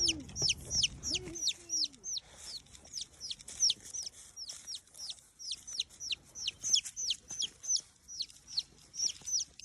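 A small chicken peeping loudly and rapidly, short high downward-sweeping peeps at about three to four a second, the distress calls of a bird being nipped and harried by a dog. A lower whine comes and goes in the first two seconds.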